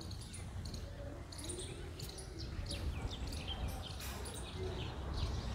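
Small birds chirping in many short, high calls, most of them falling in pitch, over a low steady rumble.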